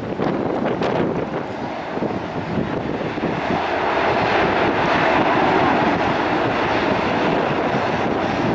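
Jet airliner engines: a steady roar that swells from about three seconds in and is loudest in the middle, as the aircraft passes close by.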